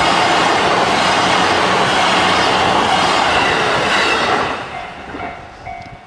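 E233 series electric commuter train passing close by, a loud, steady wash of wheel and rail noise that fades away from about four and a half seconds in. As it dies down, the level crossing's warning bell is heard ringing in short repeated tones near the end.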